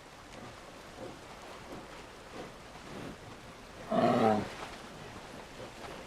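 A polar bear cub gives one short, loud, pitched call about four seconds in, over faint soft sounds repeating roughly every half second.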